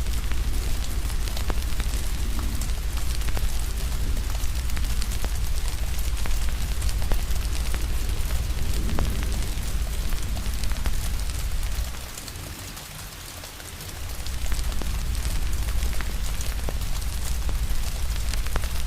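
Steady rain falling, mixed with a wood fire crackling in frequent small pops, over a deep low rumble. The rumble drops away for about two seconds a little past the middle, then returns.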